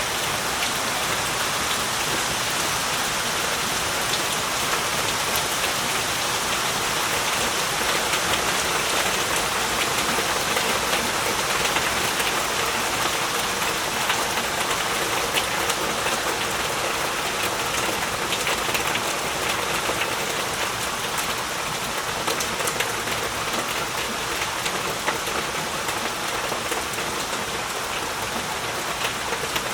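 Heavy rain falling steadily, a dense even hiss with many fine drop patters throughout.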